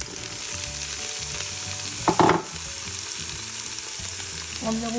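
Chicken pieces and sliced onions sizzling as they sauté in the nonstick pot of a Cookeo electric multicooker, with a steady hiss, stirred with a wooden spatula. A brief louder scrape of the spatula comes about two seconds in.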